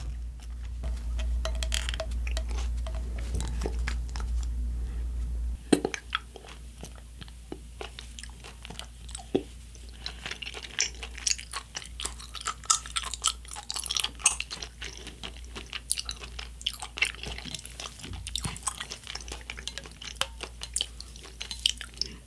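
Close-miked chewing of chewy tapioca pearls from a glass of bubble tea: a dense, irregular run of small wet clicks and smacks. For the first few seconds a steady low hum is heard before the chewing starts.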